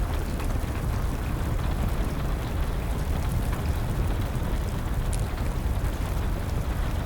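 Steady rain with a deep low rumble, mixed with the occasional crackle of a wood fire, one sharper pop about five seconds in.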